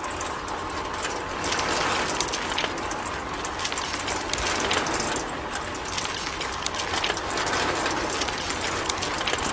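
A small motorised machine running with a continuous dense rattle.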